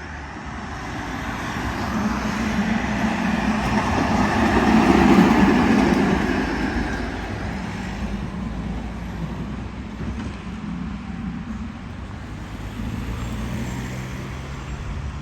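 Narrow-gauge tram passing by: its running noise and low hum grow louder, are loudest about five seconds in, then fade away.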